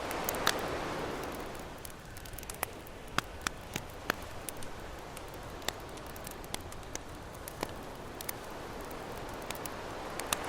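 Campfire crackling with frequent sharp pops, over ocean waves washing on the shore: one wave surges in during the first couple of seconds and another builds near the end.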